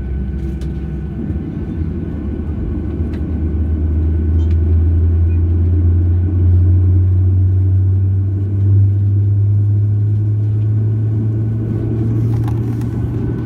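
Boeing 737-800's CFM56 jet engines running, heard inside the cabin as a loud, low drone that climbs slowly in pitch.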